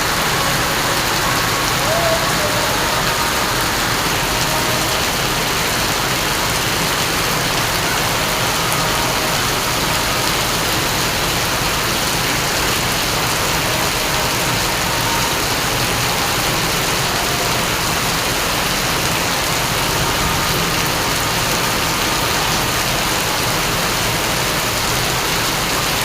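Steady heavy rain falling, a dense even hiss that holds at one level throughout.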